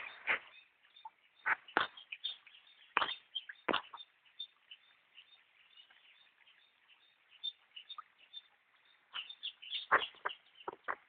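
Wild birds chirping and calling in short, scattered notes. A few sharp knocks are mixed in, most of them in the first four seconds and again near the end.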